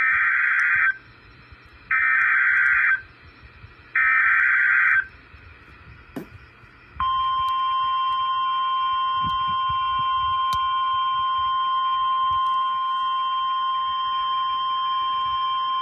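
Emergency Alert System SAME header data, a buzzy digital screech sent three times about a second each, followed by the NOAA Weather Radio 1050 Hz warning alarm tone held steadily for about nine seconds. This is the opening of a broadcast severe thunderstorm warning.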